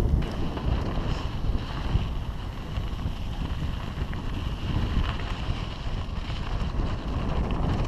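Wind rushing over the microphone of a mountain bike riding downhill, with a steady rushing noise that is strongest in the low end.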